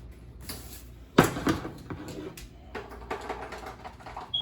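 A jar being handled and opened: a sharp knock about a second in, followed by lighter clattering and knocks.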